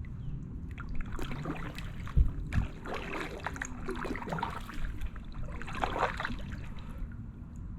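Kayak paddle strokes splashing and dripping in calm water, a stroke every second or two, with two low thumps a little after two seconds in.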